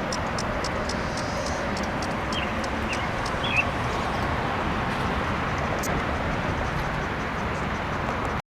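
Steady roar of highway traffic, with a few faint high chirps about two to three and a half seconds in; it cuts off abruptly near the end.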